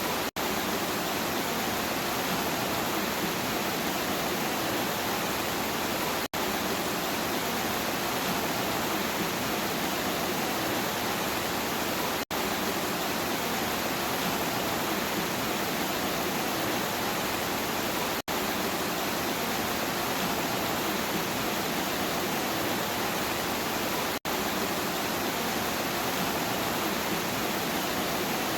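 Steady rain, an even rushing hiss, broken by a split-second dropout about every six seconds.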